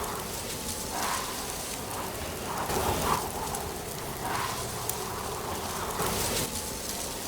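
Wind blowing in swelling gusts, with dry leaves rustling.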